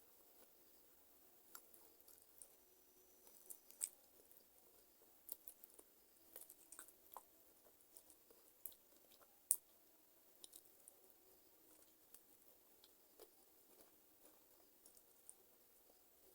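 Close-miked chewing of chicken feet: soft wet squishing with scattered sharp crackles and clicks from skin, cartilage and small bones, two louder cracks about four and nine and a half seconds in.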